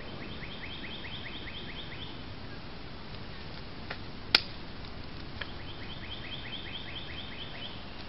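A songbird singing two phrases of about ten quick, evenly repeated notes, roughly five a second, one at the start and one a little after the middle, over a steady hiss. A single sharp click a little over four seconds in is the loudest sound.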